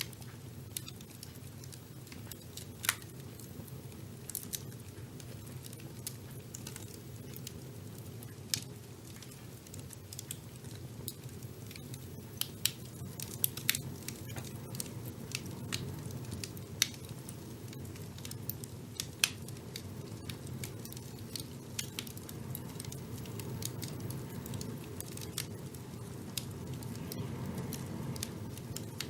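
Wood fire burning in a fireplace: a steady low rumble of flames with irregular sharp crackles and pops, a handful of them louder.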